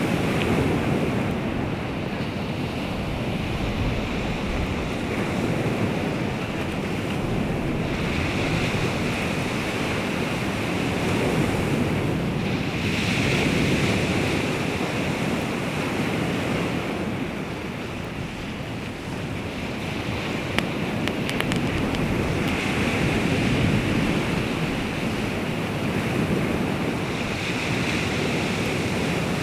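Baltic Sea waves breaking and washing ashore, swelling and ebbing every few seconds, with wind buffeting the microphone. A few brief clicks come about two-thirds of the way through.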